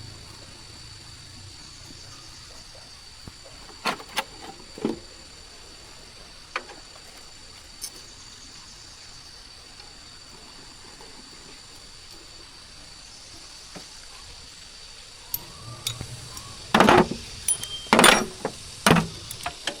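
A few scattered sharp clicks and knocks over a faint steady hiss, then several loud knocks and clatters near the end.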